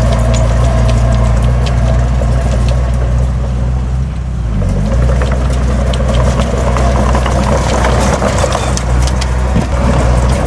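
Heavy diesel engine of earthmoving equipment running steadily under load, dipping briefly about four to five seconds in, with scattered metallic clanks and rattles.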